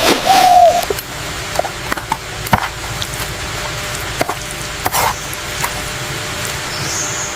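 A dove coos once more, a falling call in the first second. Then scattered light knocks and taps, like wood being worked or chopped, sound over a steady background hiss.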